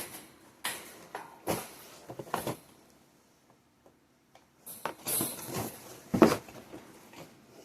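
Greenhouse kit parts and their packaging being handled: scattered rustles and light knocks, a quiet stretch in the middle, then more rustling and a sharp click.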